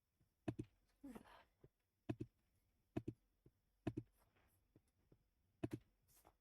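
Computer mouse clicks: five quick double clicks spaced unevenly a second or so apart, with a short faint vocal sound about a second in.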